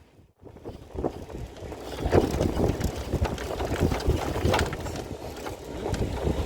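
Low rumble and irregular rattles of a tram in motion, with wind on the microphone; the sound drops out briefly at the very start.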